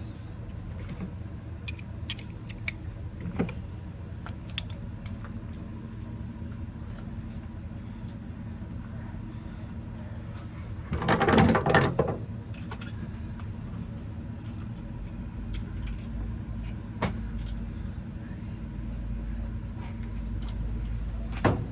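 Scattered metal clicks and clinks of hand tools on a rear axle's differential as the small bolt holding the cross pin is taken out, over a steady low hum. A louder clattering burst, about a second long, comes about halfway through.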